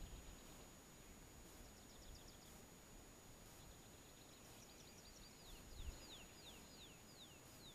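Faint birdsong: a short run of quick high notes, then from about five seconds in a bird repeating a short descending whistle about twice a second. A soft low thump just before six seconds.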